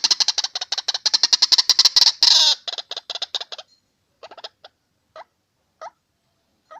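Truwok bird calling in a fast series of short, harsh notes, about eight a second, with one longer note a little past two seconds in. The series breaks off into a few widely spaced single notes.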